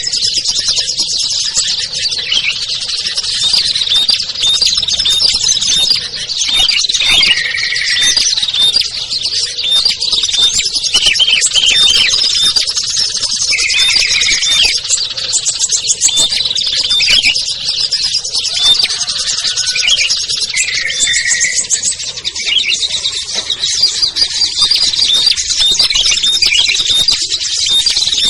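Dense mixed chorus of small songbirds, with rapid high chirps and trills running on without a break and a lower warbling phrase every few seconds. It is a bird-lure recording made to draw small wild birds down.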